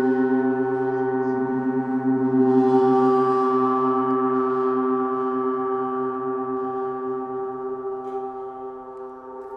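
Planetary gong ringing with a dense wash of sustained overtones and a slow pulsing wobble in its low hum; it is struck again about two seconds in, then slowly dies away.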